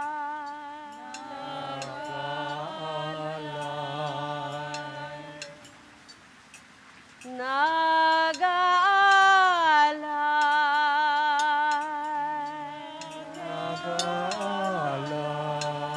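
Wordless layered chant: long held notes with a slight waver over a steady drone, a lower voice joining for a few seconds at a time. About seven seconds in, a louder voice slides up, holds and falls away.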